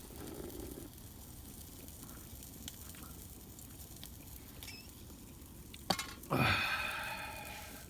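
Faint sizzling of sausages frying in a pan, with light clinks of utensils. A sharp click about six seconds in, then a person's brief hummed voice near the end.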